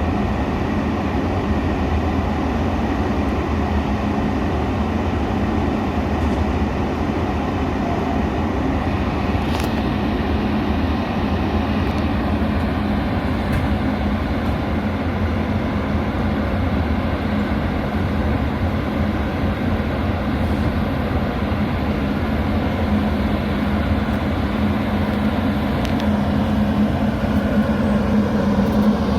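Steady rumble and hum of a Metra commuter train, growing slightly louder near the end.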